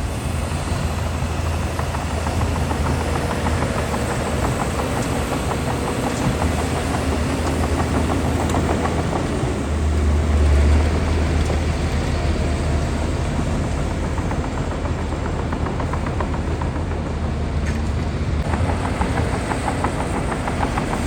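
Diesel engine of a Shantui DH17C2 bulldozer running steadily under load, swelling briefly about halfway through.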